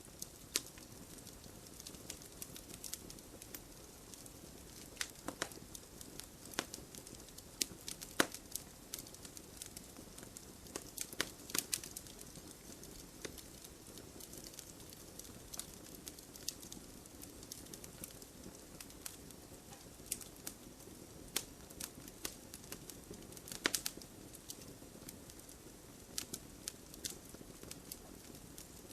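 Wood fire burning in a fireplace: a soft steady rush of flames with irregular sharp crackles and pops from the burning logs, a few louder snaps among them.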